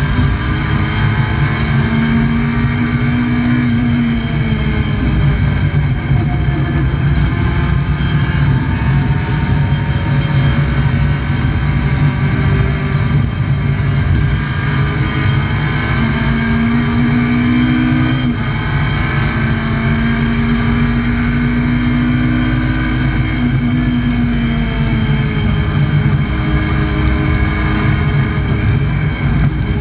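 Alfa Romeo 147 2.0 Twin Spark race car's four-cylinder engine heard from inside the cabin, running hard under load, its pitch climbing and dropping again and again through the gears over a steady low drone.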